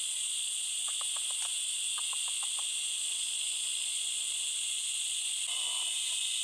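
Steady chorus of forest insects, a high shrill buzzing that does not let up. A few faint ticks sound about a second in and again around two seconds.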